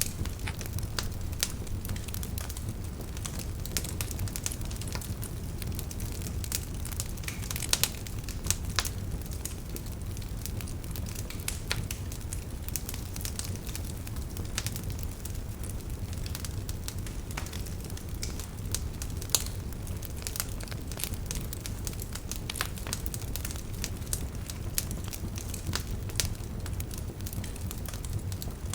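Wood fire crackling in a fireplace: a steady low rumble of burning with irregular sharp pops and snaps, a few louder pops among them.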